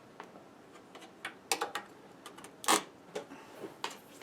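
A series of irregular, sharp small clicks and taps, the strongest about two and a half seconds in.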